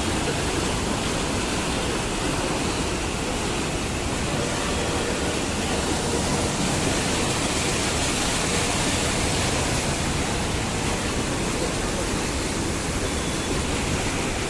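Floodwater from an overflowing lake rushing steadily, a continuous even noise of flowing water.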